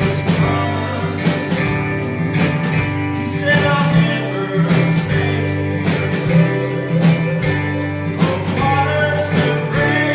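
A live worship band playing a country-gospel style song with guitar and a steady beat, with some singing.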